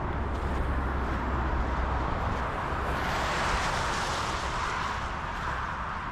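Steady outdoor rushing noise with a low rumble; a hiss swells about three seconds in and fades again near the end.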